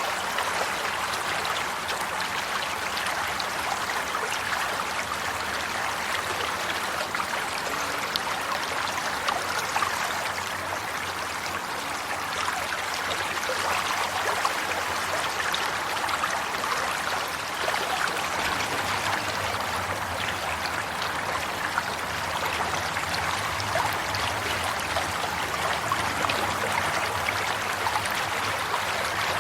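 Flowing water in a stream, a steady babbling and trickling with many small splashes.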